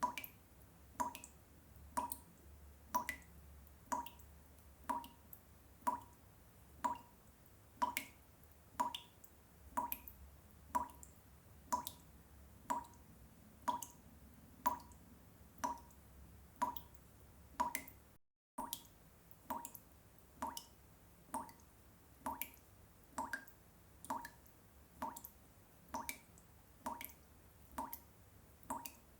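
Water drops falling one at a time, each a short drip, repeating at an even pace of about one to two a second. There is a brief cut-out about two-thirds of the way through.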